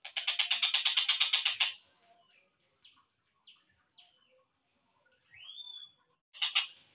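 Tengkek buto kingfisher calls, slowed down: a fast rattling trill for the first couple of seconds, a few short separate notes, a rising whistle about five seconds in, then a brief rattle near the end.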